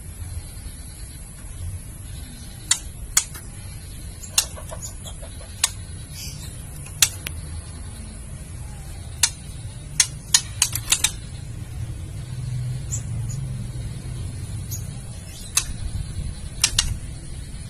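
Female white-rumped shama giving its 'kretekan' calls: sharp, dry clicks at irregular spacing, some single and some in quick runs of two to four, over a steady low hum.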